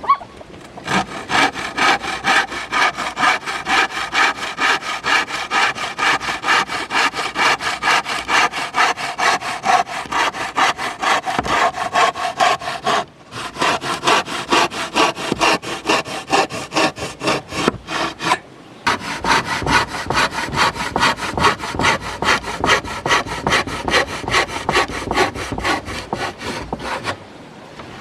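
Hand saw cutting through wood in quick, even back-and-forth strokes, pausing briefly twice.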